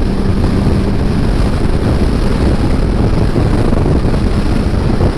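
Riding a Kawasaki Ninja ZX-6R: steady wind rushing over the helmet microphone, with the engine's steady drone beneath it.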